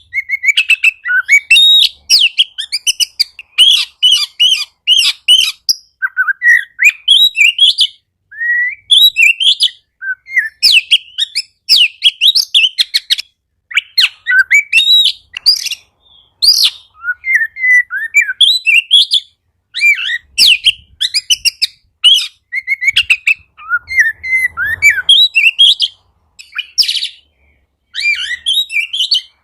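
Oriental magpie-robin (kacer) singing: rapid, varied phrases of chirps, trills and whistles, each a second or two long with short pauses between them.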